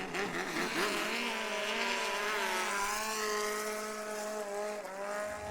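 The engine of a Thai longtail racing boat running hard at high revs, its pitch holding fairly steady with a slight wobble.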